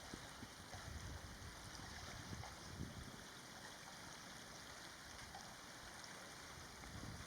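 Faint, steady outdoor noise like wind and lapping water, with a low rumble; no clear bird calls stand out.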